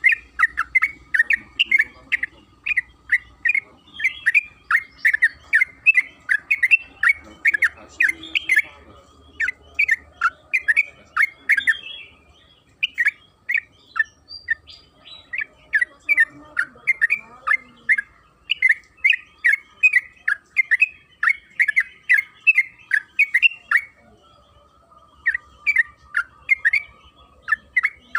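Yellow-vented bulbul (trucukan) singing long, rapid runs of sharp chattering notes, about four or five a second, broken by a few short pauses.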